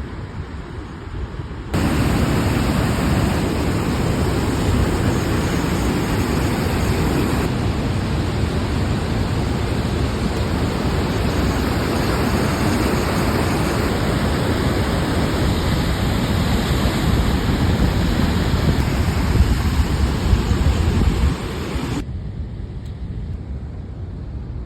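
Loud, steady rush of water flowing through a dam. It jumps louder abruptly about two seconds in and drops back abruptly near the end.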